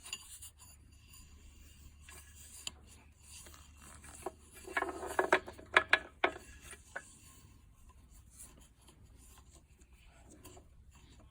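Hands working the lawn mower's throttle lever and controls: light rubbing and scraping, with a cluster of clicks and metal knocks about halfway through. The engine is not yet running.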